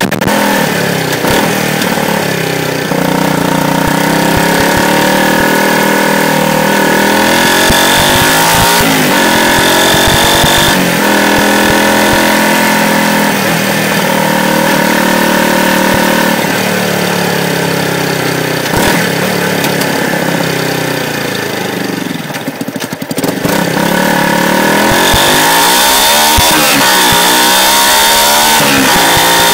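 A Yamaha YZF-R125's 125 cc single-cylinder four-stroke engine, picked up close from beneath the bike while riding. Its revs climb and drop again and again as it shifts up through the gears. It eases off about three-quarters of the way through, then pulls hard again near the end under acceleration.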